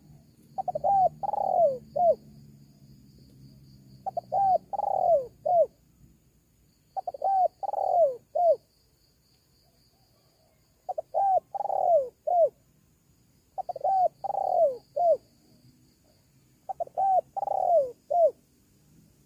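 Spotted dove (tekukur) cooing: six repeated phrases of a few short coos around a longer falling note, about every three seconds. This is a lure song used to call in wild spotted doves.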